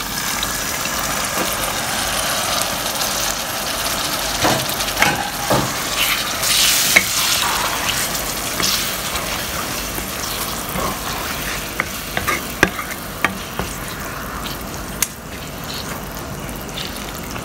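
Water poured onto browned mutton keema in a hot pan, the mince sizzling steadily, then stirred with a spatula that scrapes and clicks against the pan.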